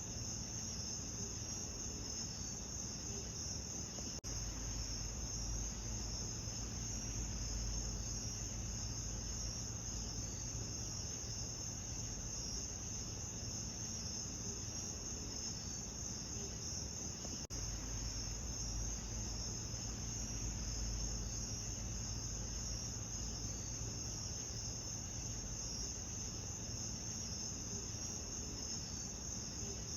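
Steady chorus of crickets trilling continuously at a high pitch, over a low, even background rumble.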